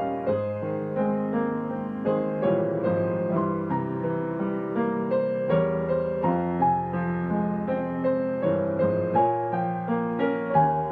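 Digital piano playing a slow, gentle solo piece: melody notes and chords struck a few times a second and left to ring.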